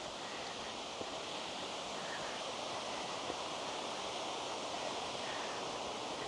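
Steady rush of water from a forest creek and waterfall, with a few faint ticks.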